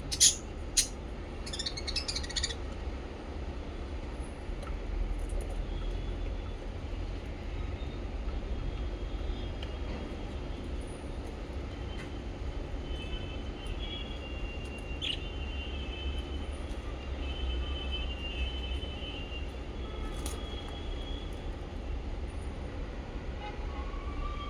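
Small pet parrots chirping: a few sharp, loud chirps in the first couple of seconds, then sparse, quieter warbling twitters with an occasional sharp chirp, over a steady low rumble.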